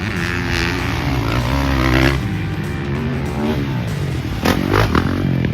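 Motocross dirt bike engine revving up and down, its pitch rising and falling repeatedly, with a louder surge about four and a half seconds in. Music plays underneath.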